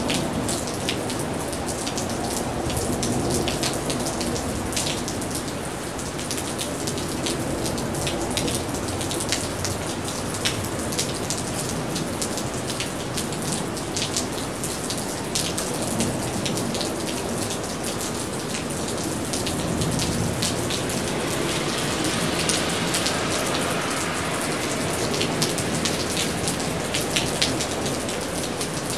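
Steady rain falling on a wet street and pavement, with individual drops ticking sharply close by throughout.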